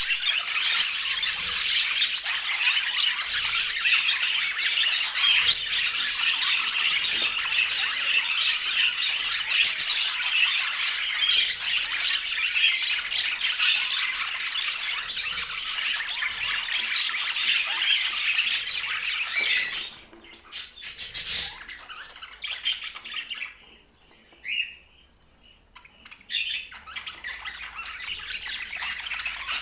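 A group of budgerigars chattering and squawking, many calls overlapping in a dense, steady din. About two-thirds of the way through the chatter drops off suddenly to a few scattered calls, then builds back up near the end.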